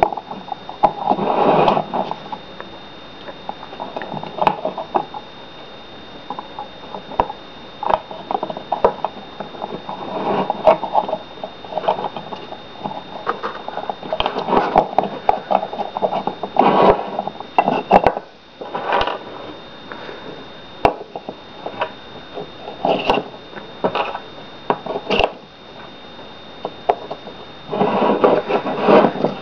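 Wooden model engine parts handled and fitted back together: irregular light wood-on-wood knocks and clicks with rustling handling noise.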